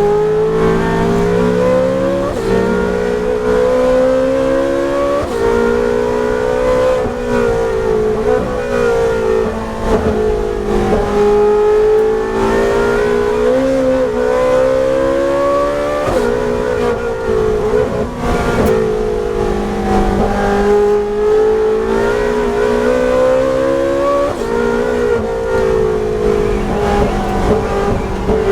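Ferrari 458 Challenge's V8 racing engine at full effort. Its pitch climbs through each gear and drops back at each shift or lift, over and over.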